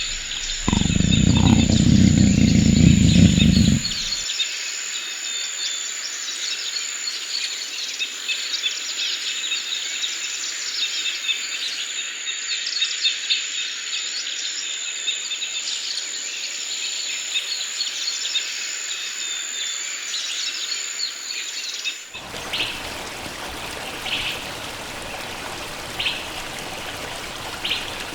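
Tropical forest ambience: many birds chirping over a steady high-pitched insect drone. In the first few seconds a loud low sound lasts about three seconds. Near the end the drone stops abruptly and only scattered bird calls remain.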